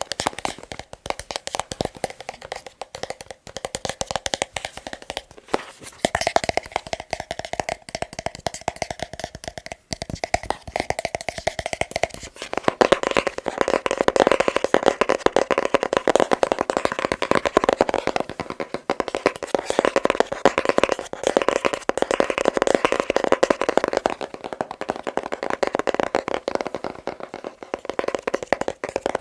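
Fast fingertip tapping on a box: a dense, continuous patter of quick taps. About twelve seconds in the tapping grows louder and more resonant, as on a different box or surface.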